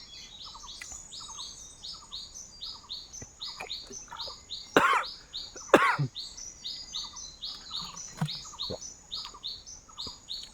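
Jungle birds chirping: short high chirps repeating evenly several times a second, with two louder calls about a second apart near the middle.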